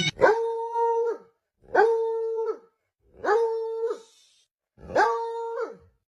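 A dog howling four times, in short, evenly spaced howls. Each holds one steady pitch and slides down at the end.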